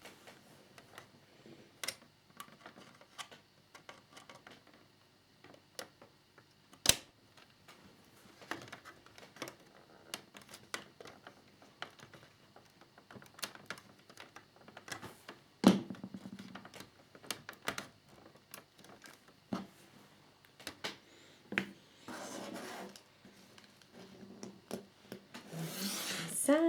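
Small clicks, taps and rubbing of plastic model fairing parts and small screws being handled and fitted, with two sharper clicks standing out, one about a quarter of the way in and one past the middle.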